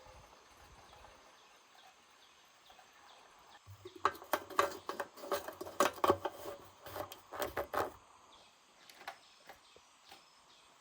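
A rapid, irregular run of hard knocks and clatter lasting about four seconds, starting around four seconds in, then a few scattered taps over faint outdoor background.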